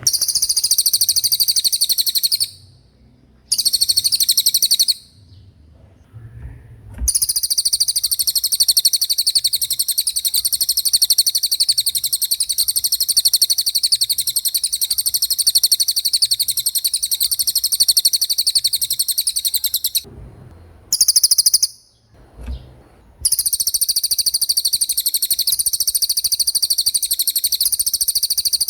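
A cililin singing its rapid, high-pitched rolling trill in long unbroken runs, stopping briefly a few times before starting again.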